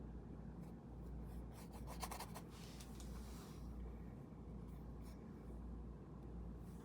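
Faint scratchy strokes of a paintbrush on paper, a quick cluster of them in the first half and a few more later, over a steady low hum.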